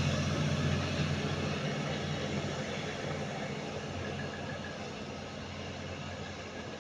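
Pesa 219M diesel railcar pulling away, its engine hum and running noise fading steadily as it moves off.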